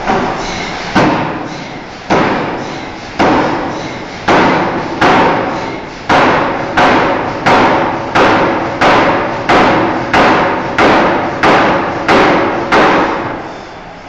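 A forging hammer beating a steel bar in a series of heavy blows, each with a short ringing decay. The blows come about once a second at first, quicken to about three every two seconds about halfway through, and stop near the end, over a steady background of shop machinery.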